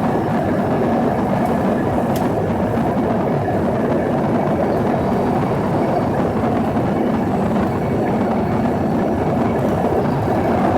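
Steady cabin noise inside an Embraer ERJ-145 regional jet: the rear-mounted turbofan engines and the rush of airflow, holding an even, unchanging level.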